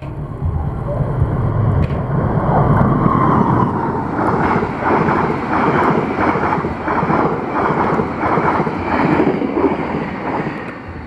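An express passenger train behind a diesel locomotive running through at high speed close by: a heavy rushing rumble with wind buffeting the microphone. From about four seconds in come rapid, even clacks of the wheels on the rails, about three a second, fading near the end as the coaches pass.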